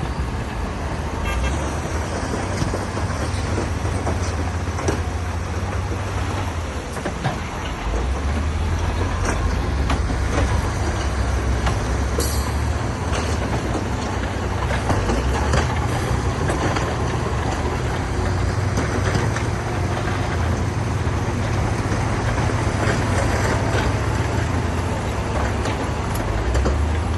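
Heavy diesel construction machinery running steadily under load, a deep engine rumble with occasional sharp knocks and clanks of stone and metal.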